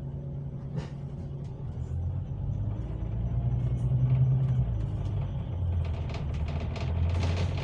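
Bus engine and road rumble heard from inside the bus: a steady low drone that grows louder about two to four seconds in. Quick rattling clicks thicken near the end.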